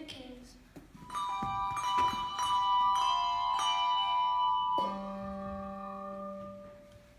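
Tuned bells struck one after another in a run of ringing notes starting about a second in, with a lower bell joining near five seconds in, all left to ring and fade away.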